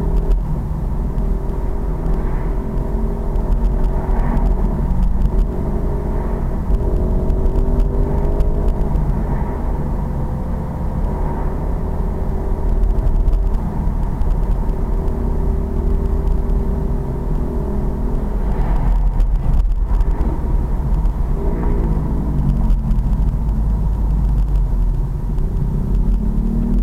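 Pit bike's small single-cylinder engine running while riding, holding steady revs in stretches with its pitch shifting as the throttle changes. About three-quarters of the way through the revs fall away, then climb again near the end.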